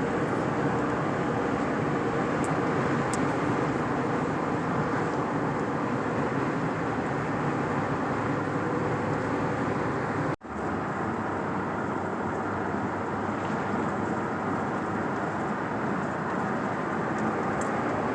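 Steady road and engine noise of a moving car heard from inside the cabin while cruising. The sound cuts out for an instant about ten seconds in, then resumes unchanged.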